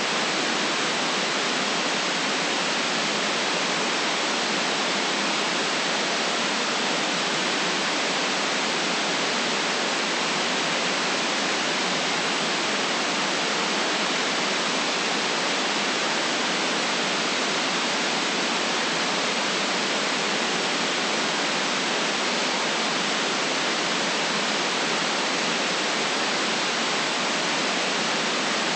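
Steady white noise: an even, unchanging hiss with no deep rumble beneath it.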